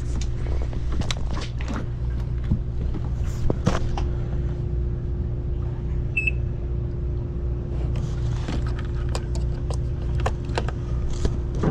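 A boat engine running steadily: a low, pulsing rumble with a constant hum over it, and scattered light clicks and knocks.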